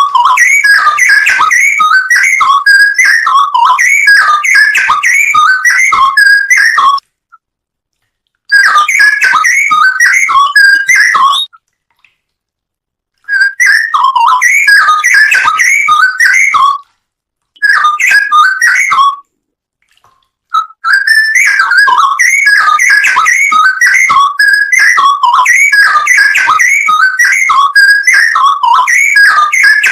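Straw-headed bulbul (cucak rowo) song: loud, rapid, bubbling whistled phrases poured out continuously, cut off abruptly into dead silence about four times as the recording is edited together.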